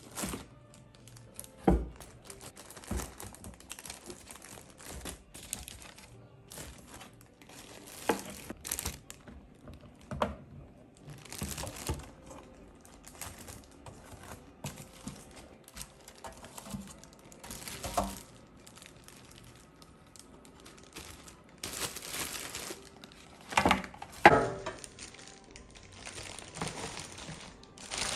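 Irregular crinkling and rustling handling noises with occasional sharp knocks, from food preparation, over faint background music.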